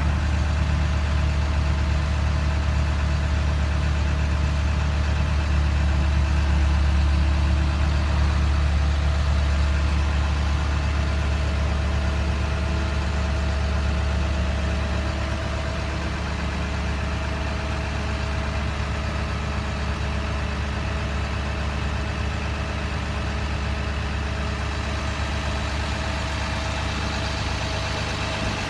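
Freightliner M2 flatbed tow truck's diesel engine running steadily at idle, a little quieter from about halfway through.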